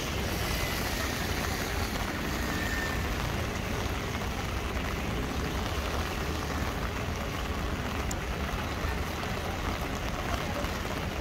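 Steady rain pattering on an umbrella overhead and on wet paving, with a steady low rumble beneath.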